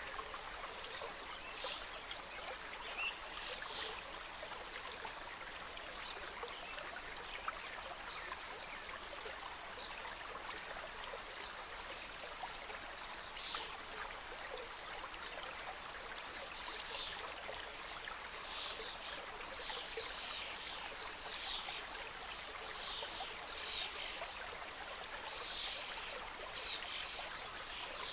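Mountain stream flowing steadily over rocks: a continuous rushing, with short, bright, high-pitched bits coming thicker in the second half.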